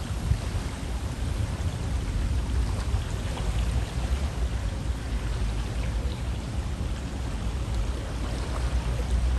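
River water flowing steadily: an even rushing with a low rumble underneath.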